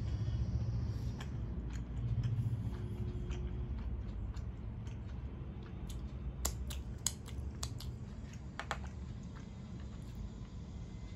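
Close-miked chewing of a mouthful of food, with a run of sharp smacks and clicks about six to nine seconds in as fingers are licked.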